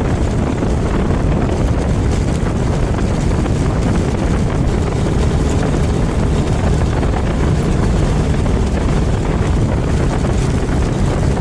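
Suzuki Thunder GSX250 single-cylinder motorcycle engine running steadily while riding at speed, with wind rushing over the helmet or bike microphone.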